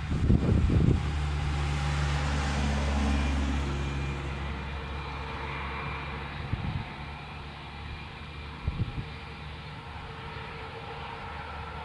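Airbus A320 jet engines running, a steady low hum that slowly fades as the aircraft moves away. Gusts of wind buffet the microphone in the first second and twice more later.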